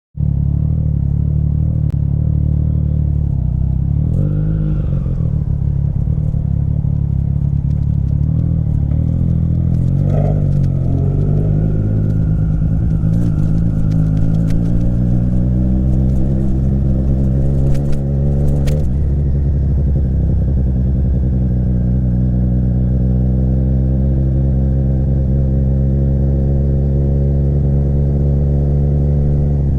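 Triumph Street Triple RS three-cylinder engine breathing through an SC-Project exhaust, running under way, its pitch climbing slowly through the middle and then holding steady.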